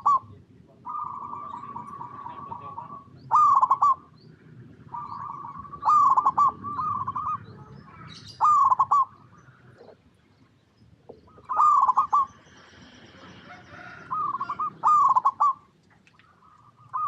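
Zebra doves cooing: loud, short bursts of rolling coos come every two to three seconds, with quieter drawn-out trilling coos between them, over a low background hum.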